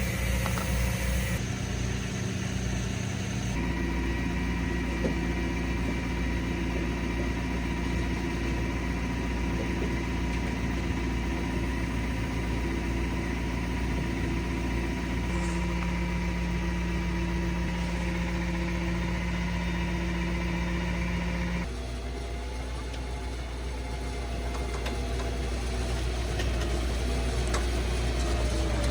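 Tow truck's engine running at a steady speed during a winch recovery. Its tone shifts abruptly a few times, and the sound gets slightly quieter about two-thirds of the way through.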